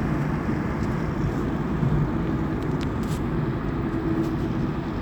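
A car driving along a road, heard from inside the cabin: the steady noise of the engine and tyres.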